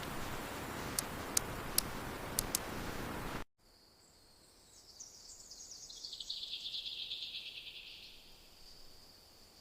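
Steady heavy rain hiss with a few sharp drip clicks, cutting off suddenly about three and a half seconds in. After that, insects chirr in a high, fast pulsing trill that slides down in pitch and fades.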